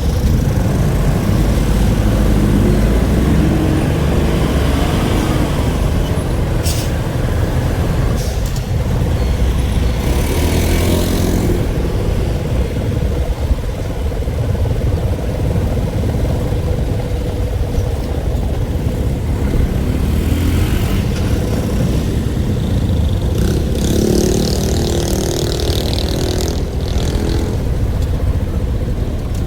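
Motor vehicle noise: a steady low engine and road rumble with a constant hum. Two louder hissing surges come about ten seconds in and again near the end.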